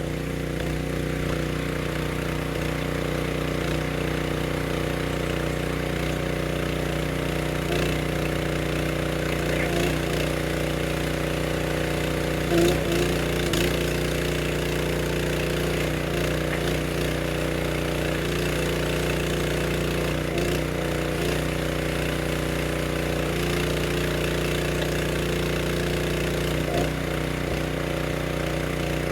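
Small engine of a wood splitter running steadily, with short changes in its sound every few seconds.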